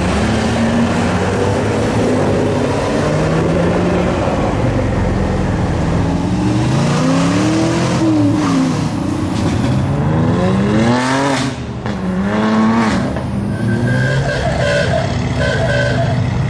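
Car engines revving and accelerating, the pitch climbing and falling several times, with the sharpest climbs around the middle.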